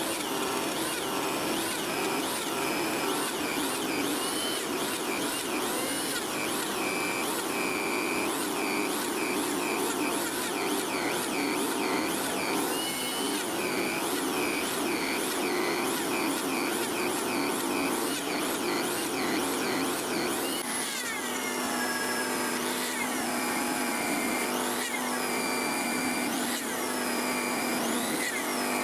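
Electric power tool running continuously, its pitch repeatedly dipping and rising as it is loaded against the work, with a change in its sound about twenty seconds in.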